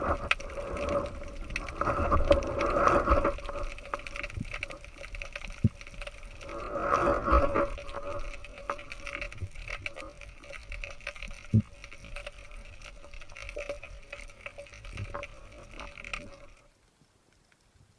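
Unidentified underwater sound: a steady hum holding one constant tone, with dense crackling clicks and a few short low swoops, cutting off suddenly near the end. The recordist wonders if it comes from a huge marine mammal.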